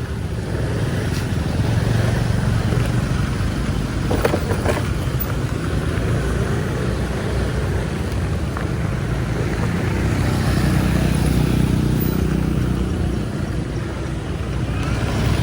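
Street traffic: a steady rumble of passing motorbike and car engines. One engine runs louder and nearer from about ten seconds in.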